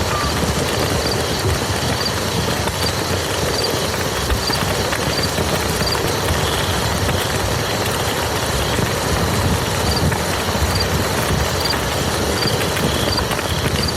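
Steady rain falling on muddy ground, an even hiss of drops with a low rumble under it. A faint high chirp repeats about every half second to second.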